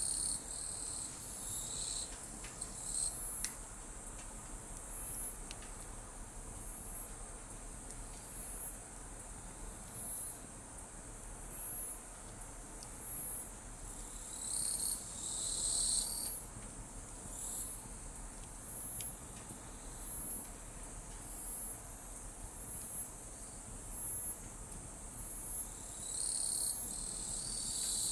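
Night insects singing: a short, high chirp repeating about every one and a half seconds, with a louder, longer buzzing trill from another insect joining three times. A few faint crackles from the bonfire a few seconds in.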